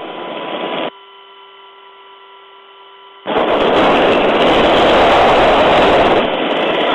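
Helicopter crew intercom with no one talking. It opens on a hiss, drops to a faint steady electrical hum of several tones, then about three seconds in a microphone keys open on a loud, even rush of rotor and wind noise, which cuts back near the end.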